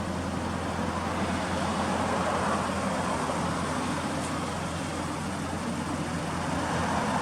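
Toyota Celica ST202's engine running steadily through its aftermarket muffler, with an even, unchanging exhaust note.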